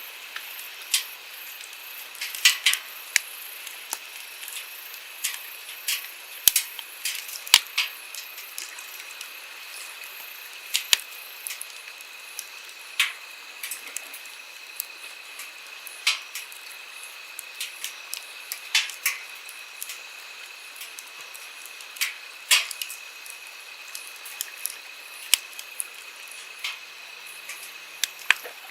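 Wood campfire crackling, with sharp, irregular pops, over the steady rush of a flowing stream.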